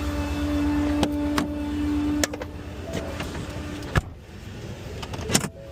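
Small rear-loader garbage truck running with a steady whine that fades out about two seconds in. A sharp clunk follows at about four seconds and a short clatter just before the end.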